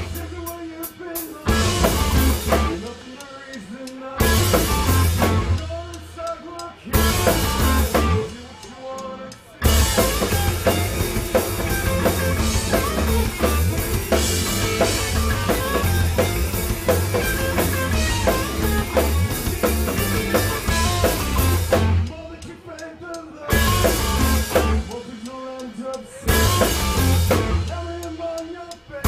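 Rock band playing with a drum kit: short loud stop-start hits with quieter gaps between them, then a long unbroken full-band passage from about a third of the way in, and stop-start hits again for the last quarter.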